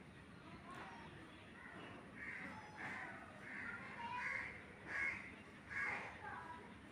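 A crow cawing repeatedly: a series of about six short harsh caws, the last two the loudest.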